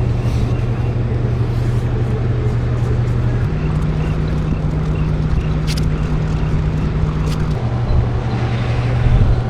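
A motor running with a steady low hum. Its pitch steps up about three and a half seconds in and drops back about four seconds later. A couple of faint sharp clicks come in the middle.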